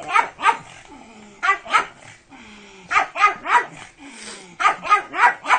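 Pug barking repeatedly in short groups of two or three, about ten barks in all.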